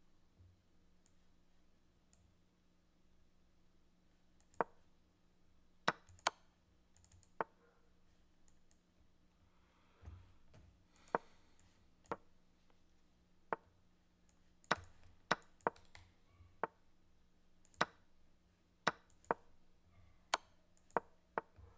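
Sharp single clicks of moves being played in a fast online chess game, irregular, sparse at first and coming quicker and closer together in the second half, over a faint steady hum.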